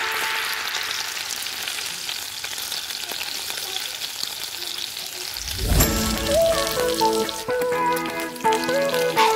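Chicken pieces sizzling as they shallow-fry in hot oil in a pan, turned now and then with metal tongs. About six seconds in, the sizzle gives way to background music.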